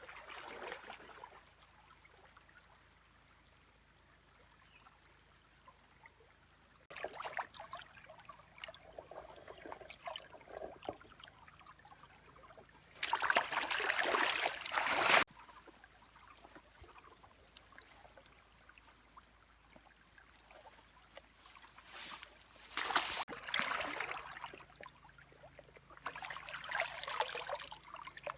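Water trickling and sloshing in several separate bursts, the loudest lasting about two seconds midway.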